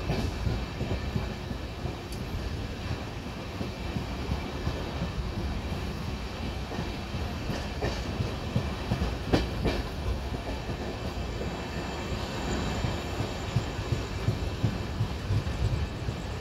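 Passenger express train running, heard from an open coach door: a steady rumble of the wheels on the track, with a few sharp clacks, the loudest about eight and nine and a half seconds in.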